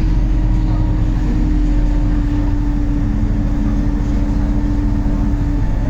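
Cabin noise of a MAZ-203 city bus on the move: a steady low rumble of engine and road, with a whine holding one pitch that sinks slightly and cuts off just before the end.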